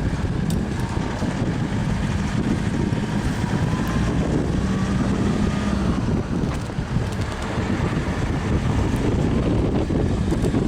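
Steady low rumbling noise of wind buffeting the microphone, with a faint steady hum underneath like a running vehicle engine.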